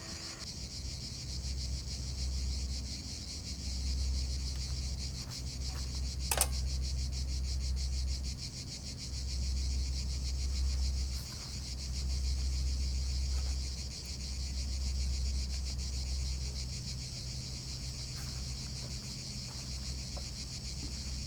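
Insect chorus in a summer pine forest: a steady, high, finely pulsing buzz. Under it a low rumble swells and fades, and a single sharp click comes about six seconds in.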